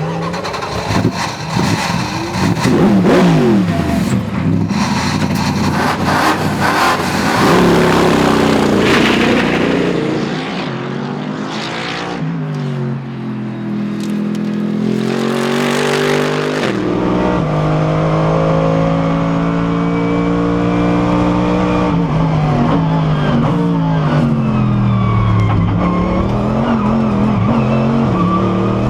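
Mercedes-Benz SLS AMG GT3's V8 engine under hard driving, heard onboard: the revs climb through the gears and drop at each shift, with a run of downshifts about halfway through, then steady acceleration in the second half.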